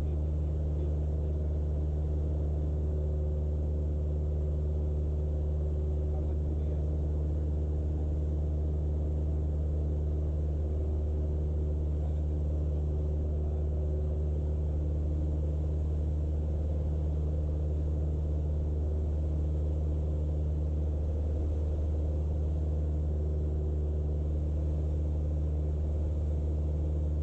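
Cessna 172's piston engine and propeller droning steadily in cruise flight, heard inside the cockpit, with a deep, even hum and no change in pitch.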